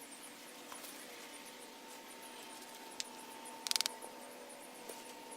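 Faint high chirping of insects, with a single sharp click about three seconds in and a short burst of rapid clicks just after.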